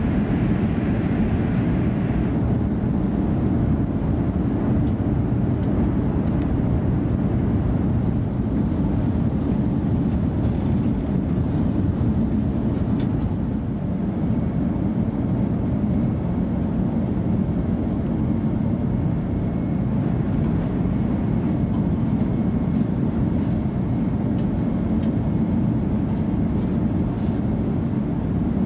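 Steady low rumble of an ICE 3 high-speed electric train running along the line, heard inside the passenger car at the front. A faint high whine joins in about halfway through.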